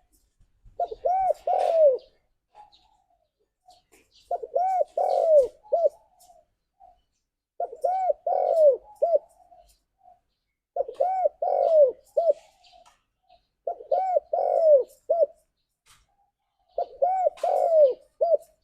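Spotted dove (tekukur) calling: six repeated cooing phrases, about one every three seconds, each a quick run of rounded coos, with soft single notes between the phrases.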